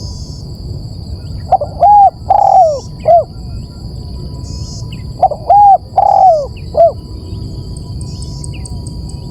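Spotted dove (tekukur) cooing: two phrases of about four low, rounded notes each, a few seconds apart and very loud. This is a dove call used as a lure.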